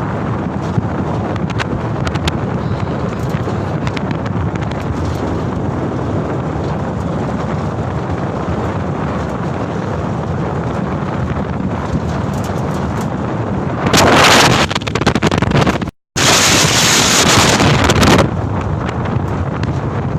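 Steady road and engine noise of a moving Canter light truck, with wind buffeting the microphone. From about two thirds of the way in, a louder rushing noise lasts about four seconds, broken once by a brief dropout.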